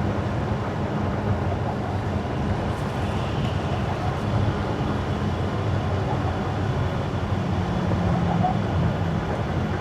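Steady road noise of a car driving on wet winter asphalt: tyre hiss over a low, even rumble.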